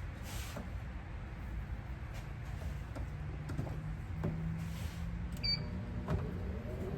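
Several clicks and knocks of handling, then a low steady motor hum from the repaired chocolate tempering machine starting about three seconds in, with a short high beep a little later; the machine runs again after its melted power switch was replaced.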